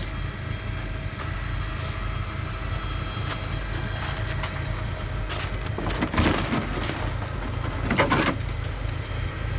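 A vehicle engine idling steadily with a low, even rumble, with a few short scuffing or knocking noises a little past halfway through.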